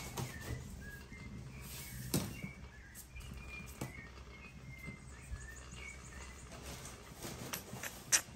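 Small birds chirping with short, scattered calls. A few sharp knocks cut through, one about two seconds in and the loudest near the end.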